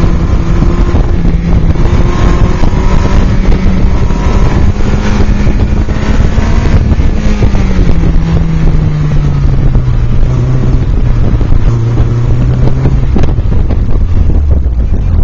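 Toyota MR2 Spyder's mid-mounted 1.8-litre four-cylinder engine driven hard on an autocross run, its note climbing, dropping away about halfway through, then rising again near the end as the driver accelerates and lifts between cones. Wind rushes over the open cockpit and the microphone.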